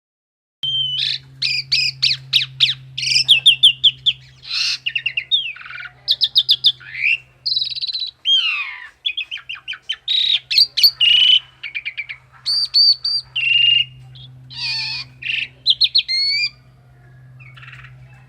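A male 'JU' songbird singing a long, varied song of rapid chattering notes, clear whistles and sliding calls, over a low steady hum. The song stops a couple of seconds before the end.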